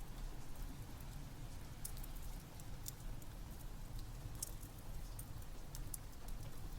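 Steady rain mixed with the crackling of a wood fire in a fireplace: an even hiss over a low rumble, with scattered sharp crackles and pops.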